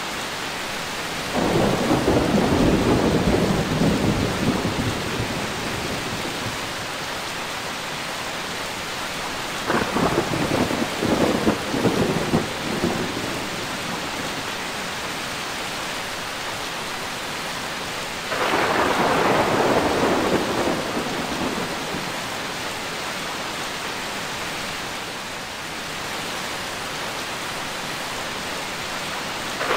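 Steady heavy rain with thunder rumbling three times: starting about a second and a half in, near ten seconds, and near eighteen seconds, each swelling suddenly and fading over a few seconds, the middle one crackling.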